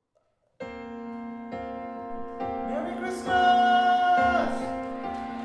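Keyboard intro of a praise song starting about half a second in: sustained chords that change a couple of times, with a loud held higher note joining around three seconds in.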